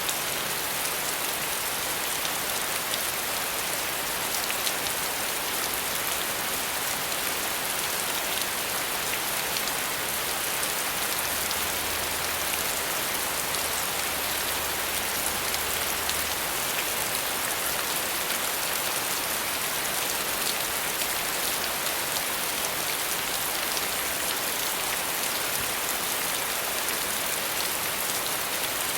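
Steady rain falling on a surface, a dense even patter of drops with no thunder.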